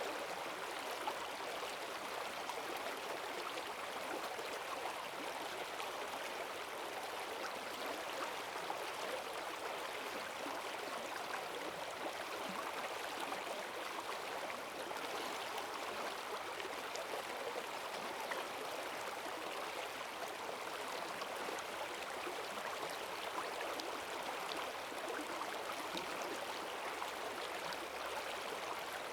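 Rain-swollen forest stream rushing over stones, a steady dense splashing and gurgling that holds even throughout.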